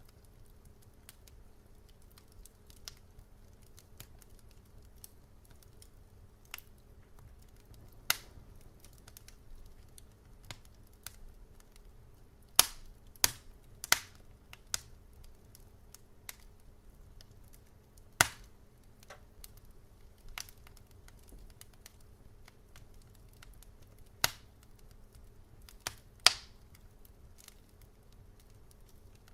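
Wood fire crackling: scattered sharp pops and snaps over a low steady background, with a cluster of loud pops around 12 to 14 seconds in and single loud ones near 8, 18, 24 and 26 seconds.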